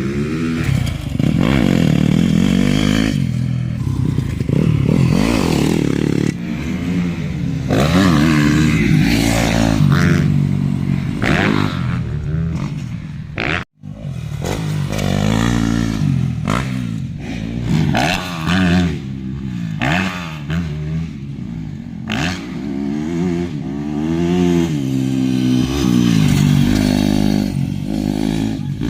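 A 2017 Yamaha YZ250F motocross bike's four-stroke single-cylinder engine revving up and down over and over as it is ridden on a dirt track. The sound cuts out for an instant about halfway through.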